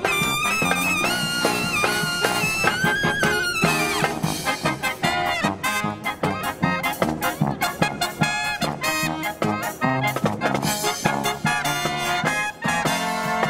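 A brass marching band playing live, with trumpets and trombones to the fore. It opens on held notes with vibrato, and about four seconds in breaks into a quick, rhythmic run of short punchy notes over drum hits.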